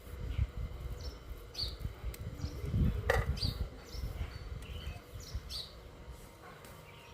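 Small birds chirping: short, high, falling chirps repeating every second or so, over an uneven low rumble on the microphone.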